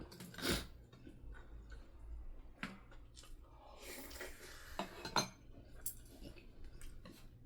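Cutlery clinking against dishes while eating: a few separate sharp clinks, the loudest about five seconds in.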